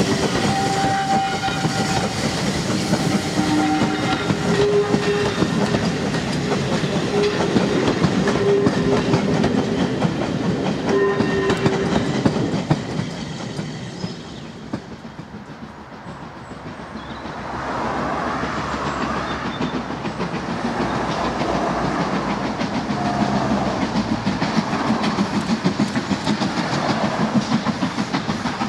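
Carriages of a steam-hauled passenger train rolling past close by, wheels clicking over the rail joints, with a few short steady tones over the rolling. About halfway through the sound drops away, then a steam train is heard again, building up toward the end with an even rhythmic pulse.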